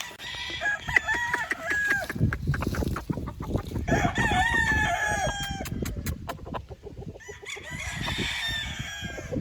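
Gamefowl roosters crowing: three long crows, one at the start, one about four seconds in and one near the end, over a low rumble, with a quick run of clicks in the middle.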